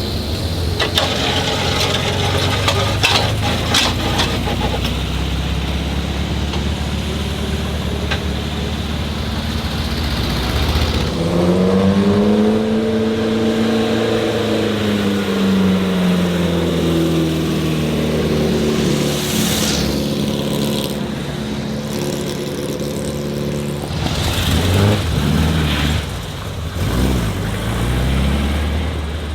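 Car engines running steadily, with one engine revving up and easing back down about halfway through and again briefly near the end.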